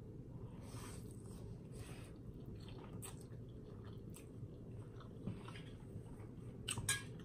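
A person chewing a mouthful of spicy instant noodles close to the microphone: soft, wet mouth sounds with scattered small clicks, and a couple of sharper clicks near the end.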